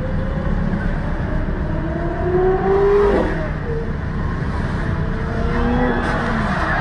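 Several sports car engines revving, their pitch rising and falling as the cars move around one another, over a heavy, steady low rumble.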